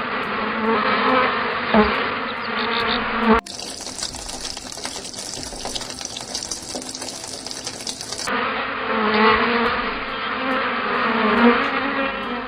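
Insects buzzing in a steady, pitched drone. The recording cuts abruptly a few seconds in to a hissing stretch with scattered ticks, then cuts back to the buzzing.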